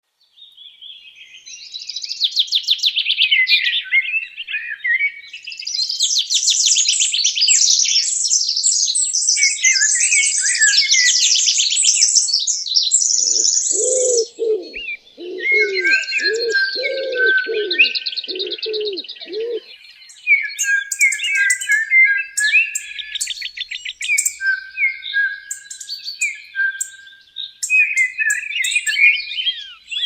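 Small birds chirping and singing in fast trills and warbles. About halfway through, a dove coos a run of about eight low notes.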